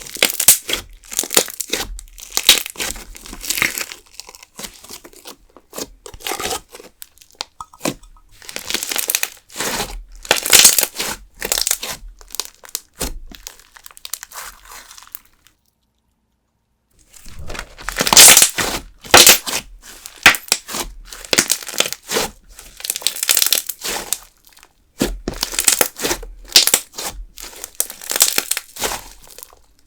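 Hands squeezing and stretching fluffed-up putty-style clear slime, giving runs of dense sticky crackling, with a pause of about a second and a half a little past halfway.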